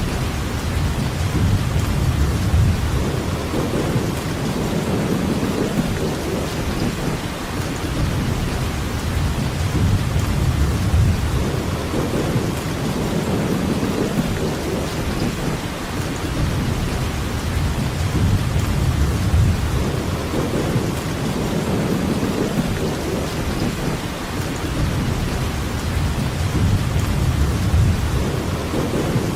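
Steady heavy rainfall, an even hiss, over a low rumble that swells and fades every few seconds.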